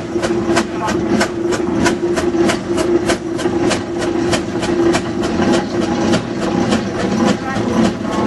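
Steam road roller's engine working, its exhaust chuffing in an even beat of about three a second over a steady hum.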